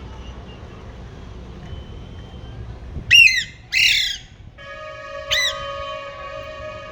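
Pet parrot squawking: three loud, harsh calls in the second half, the middle one longest. A steady, even tone comes in just before the last call and holds under it.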